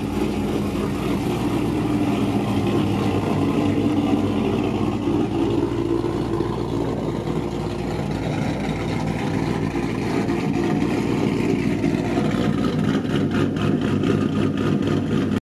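Pontiac G8 GT's V8 engine running at a steady speed, with a regular pulsing in the last few seconds; it cuts off suddenly near the end.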